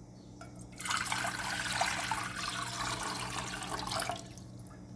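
Water being poured into a cooking pot on the stove, a steady pour of about three seconds that starts about a second in.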